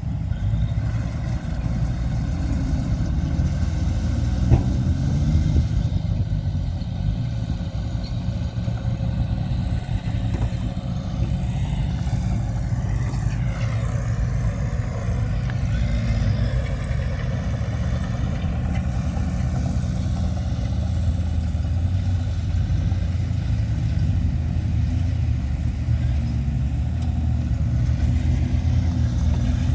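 Diesel engines of heavy earthmoving machinery (bulldozer and dump trucks) running steadily, with a single sharp knock about four and a half seconds in.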